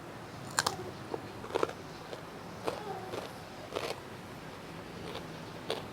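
Close-miked eating sounds: about five short, crisp crunches and chews spread through the few seconds, the sound of biting into crunchy food.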